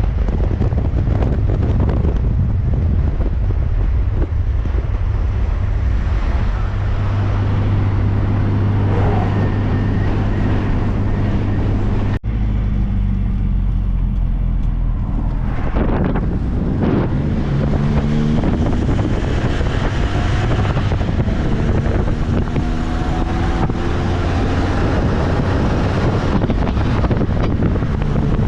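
Open-top MG Midget driving on the road: the small engine running under heavy wind buffeting on the microphone. In the second half the engine note rises several times as the car accelerates through the gears.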